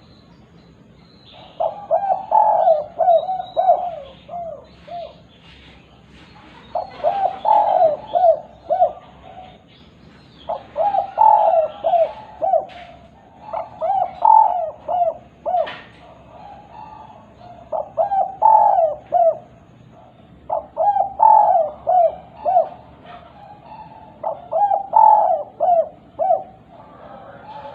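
Spotted dove (derkuku) cooing in repeated phrases of several short notes, a new phrase every few seconds with brief pauses between: the 'kuk 2' song type that keepers play as a lure to set other doves calling.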